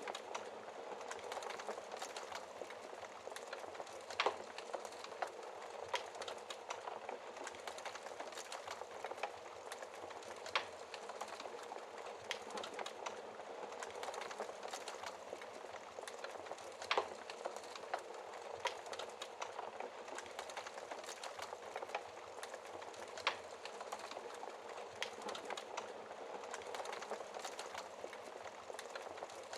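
Wood fire crackling in a fireplace: a steady hiss of small crackles with a louder pop every few seconds.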